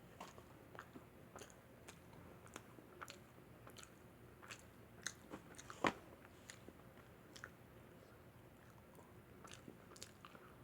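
A person chewing thin-crust pepperoni pizza close to the microphone: faint irregular mouth clicks and crunches, one sharper click a little past the middle.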